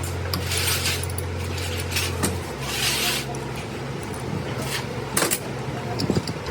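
A steady low machine hum that changes pitch about two and a half seconds in, with two short hisses and a few sharp clicks.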